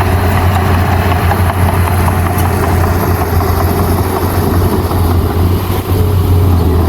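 Diesel engine of heavy earthmoving machinery running steadily with a deep drone.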